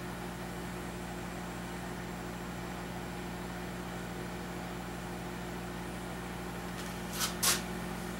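Steady mechanical hum with a low, even drone, like a fan or heater running, and two short hisses close together near the end.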